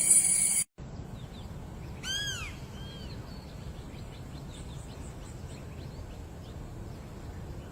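A bird gives one loud call that rises and falls, then a shorter second call, with faint high chirps after, over a low steady rumble. Before that, a loud high hiss cuts off suddenly under a second in.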